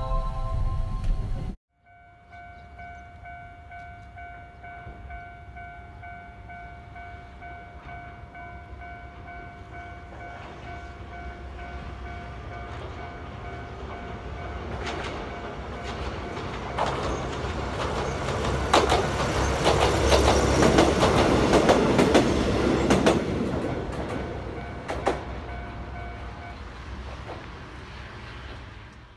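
A Mizuma Railway 1000-series electric train approaches and passes, wheels clacking over the rail joints. It is loudest about two-thirds of the way through, then fades. A steady electronic ringing sounds throughout and stops shortly before the end, and a short chime jingle ends just after the start.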